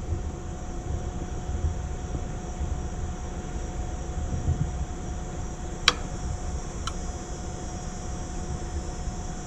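Outdoor AC condenser unit running steadily with its fan on while the compressor has not yet started. Two sharp clicks come a little past the middle, about a second apart.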